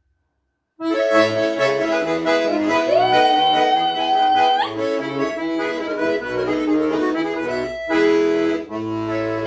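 Accordion playing the instrumental introduction to a Russian folk stradaniya song: sustained chords over a stepping bass line, starting about a second in.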